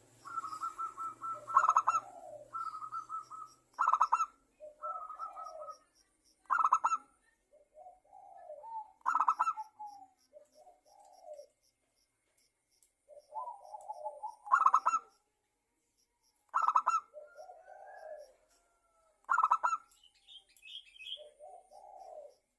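Zebra dove (perkutut) cooing: repeated phrases of rapid, trilled coos, each with a loud stuttering burst, coming about every two to three seconds.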